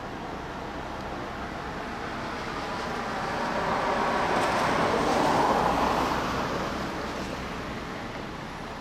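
MTR Island Line M-Train electric multiple unit passing at close range: its running noise swells to a peak about five seconds in, then fades as it moves on.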